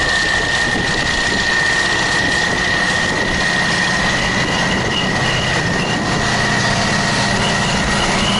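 Large diesel tractor engine running steadily, with a steady high-pitched whine over it.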